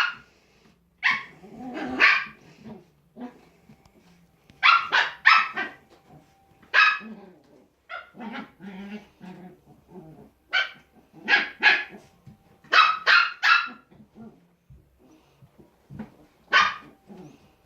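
Puppies barking in play: short high yappy barks in quick clusters of two to four, with low puppy growling between them.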